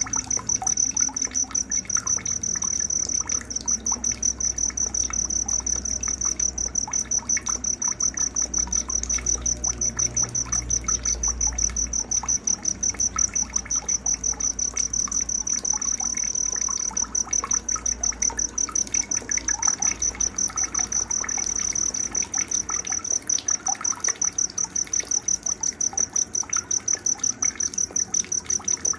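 Nighttime nature ambience: an insect trills steadily in a fast, even pulse throughout, with scattered short bird chirps.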